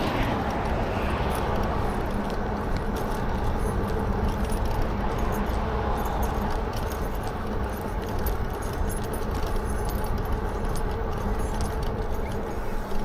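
Riding noise of a Lectric XP4 e-bike rolling along a path: steady rumble and wind on the microphone with a faint steady hum, and light jingling rattles throughout.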